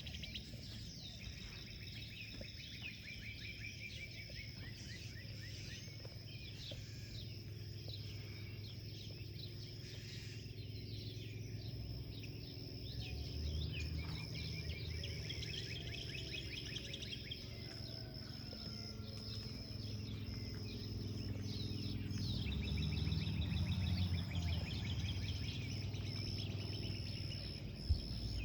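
Several wild birds chirping and trilling in a morning chorus over a low, steady outdoor rumble, with a faint steady high whine behind them. A single sharp click sounds near the end.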